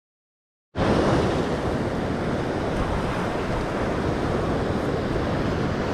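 Dead silence that cuts abruptly, under a second in, to steady beach noise: surf and wind rushing over the microphone.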